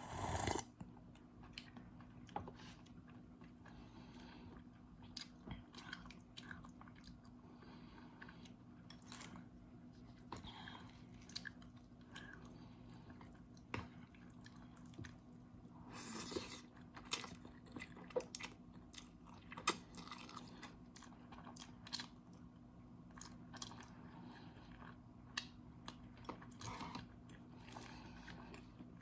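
A person chewing instant noodles close to the microphone: soft, scattered mouth clicks and small crunches, with a louder burst of noise at the very start and another about halfway through.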